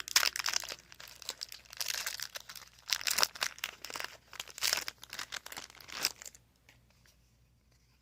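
A Pokémon TCG booster pack's foil wrapper being torn open and crinkled by hand, a busy run of crackling that stops about six seconds in.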